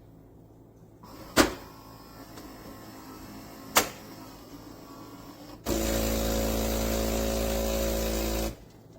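Philips 3300 Series fully automatic espresso machine working through a cycle: a low hum with two sharp clicks, then a loud, steady mechanical buzz for about three seconds that stops abruptly.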